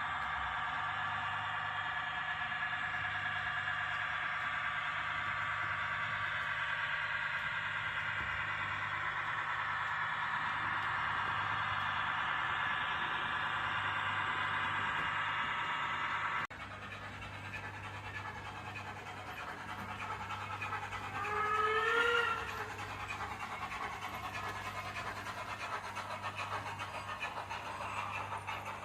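H0 model train running on the layout with a steady motor whine. After an abrupt cut about halfway through, a noisier rolling sound with a short rising-then-falling tone a few seconds later, under a constant low hum.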